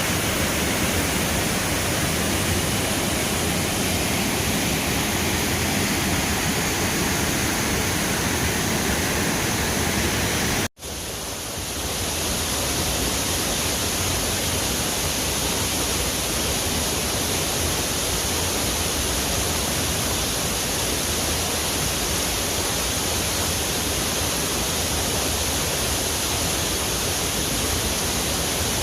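Large, high-volume waterfall: a steady rush of falling water, with a split-second dropout about eleven seconds in.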